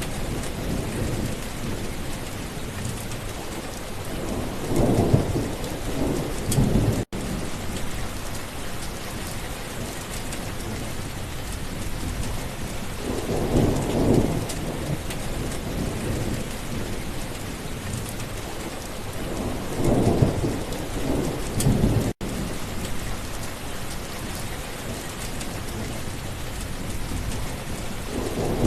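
Steady rain falling, with rolls of low thunder rumbling several times through it. The sound drops out for an instant twice.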